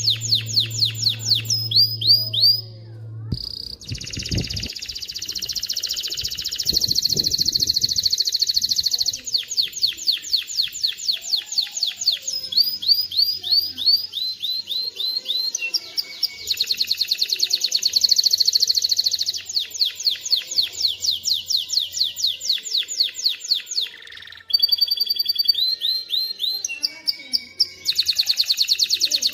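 Male domestic canary singing a long song of fast repeated trills and rolls. The song switches from one rapid phrase to the next every second or two, with brief pauses.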